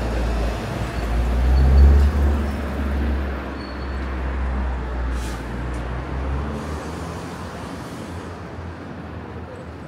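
Street traffic: a passing vehicle's low engine rumble swells to its loudest about two seconds in, then fades away, with a brief hiss about five seconds in.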